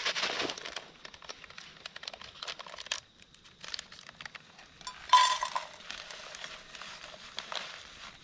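Camp cooking gear being handled: crinkling of a food packet and clinks of a pot and utensils, then about five seconds in a louder burst that settles into a steady hiss and stops near the end.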